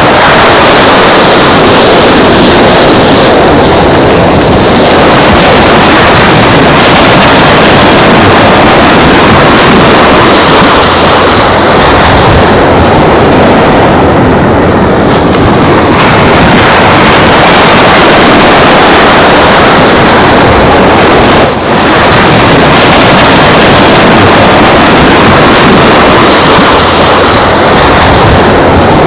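Loud, steady wind buffeting the microphone over the rush of surf on the shore.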